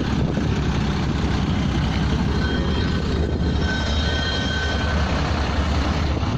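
Pneumatic drilling rig running: a loud, steady, rapidly pulsing mechanical rumble, with faint thin whistling tones for a couple of seconds in the middle.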